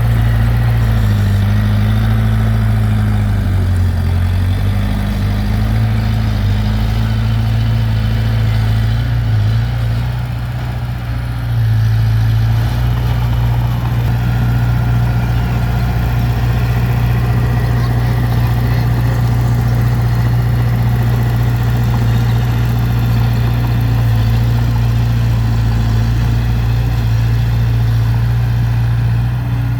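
Diesel engine of heavy earthmoving machinery running steadily, with small shifts in engine speed and a slight drop in loudness around ten seconds in.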